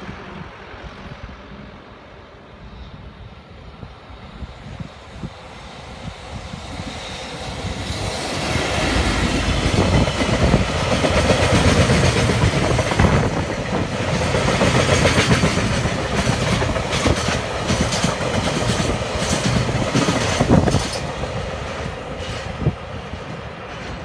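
EF65 electric locomotive hauling a long train of oil tank wagons past at close range: the rumble builds over the first several seconds, then the wagons go by with rapid clickety-clack of wheels over rail joints, and the sound fades near the end as the train recedes.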